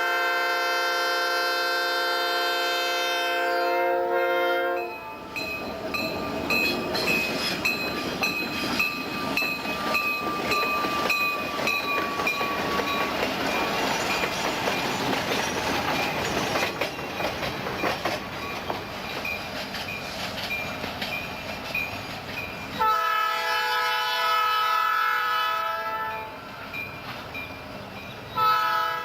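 Conrail diesel freight train sounding its air horn in a long blast, then rolling past with wheels clacking over the rail joints. The horn sounds again twice near the end.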